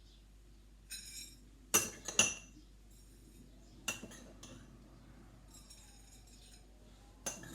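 A spoon clinking against a plate as nuts and seeds are spooned onto it: a few sharp clinks, the loudest two close together about two seconds in, and another near the end.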